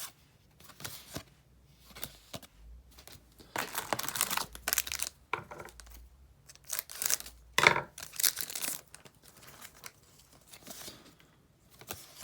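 A Dragon Ball Z card game booster pack's wrapper being torn open and crinkled, in two rustling bursts about four and eight seconds in, with light handling noise between.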